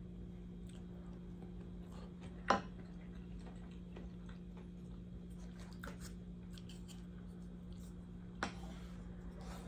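Close-miked eating: quiet chewing and small mouth clicks, with two sharper clicks about two and a half seconds in and near the end, over a steady low hum.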